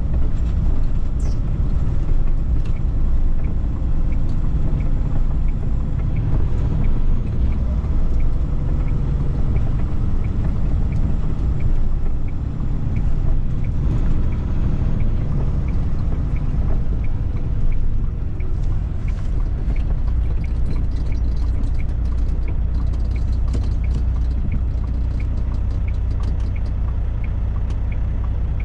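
Cab interior of a Freightliner FLD120 semi truck: the Cat 3406E diesel engine gives a steady low rumble as the truck creeps down a snowy hill. A regular light ticking comes in about halfway through.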